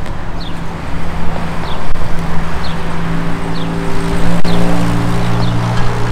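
A motor vehicle's engine running close by, a steady low hum that drops in pitch about four and a half seconds in. A short, high, falling chirp repeats about once a second over it, and there is one sharp click about four and a half seconds in.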